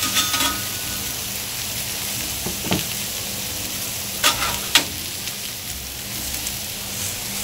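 Chopped raw potatoes, onions and peppers sizzling steadily in oil on the steel flat top of a Blackstone 22-inch griddle, with a few sharp clicks in the middle of the stretch.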